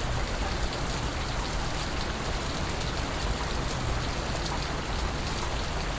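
Steady rain with scattered drops ticking.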